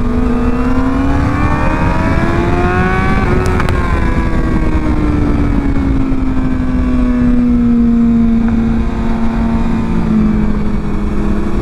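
Motorcycle engine rising in pitch under acceleration for about three and a half seconds, then slowly falling as the bike eases off, with two brief clicks near the peak. Wind rush from riding speed runs underneath.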